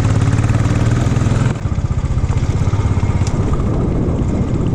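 Motorcycle engine running while riding, with rapid even firing pulses. About a second and a half in, the engine note drops abruptly and carries on lower.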